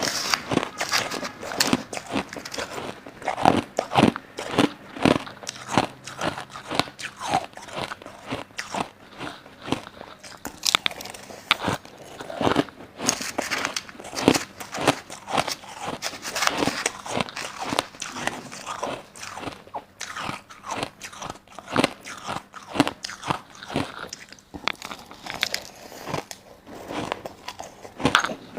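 Crushed ice being bitten and chewed close to the microphone: a dense, irregular run of crunches, several a second.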